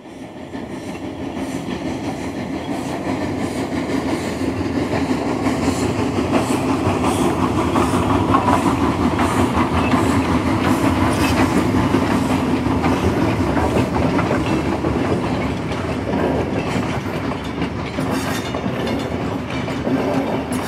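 A train running on rails, wheels clacking over the track in a steady run, fading in from silence over the first couple of seconds.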